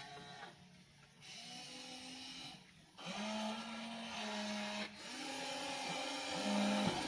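Small electric gear motors of a WLtoys RC toy excavator whining in several short runs, stopping and starting with brief pauses, the pitch shifting from one movement to the next.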